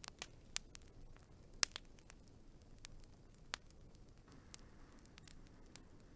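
Wood fire burning with a low steady hiss and irregular sharp crackles and pops, the loudest pop about a second and a half in.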